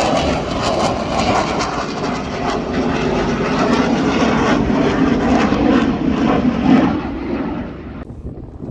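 Loud engine roar of an airshow aircraft passing low overhead, with a steady hum under a dense rush of noise. It fades after about seven seconds and drops away sharply about eight seconds in.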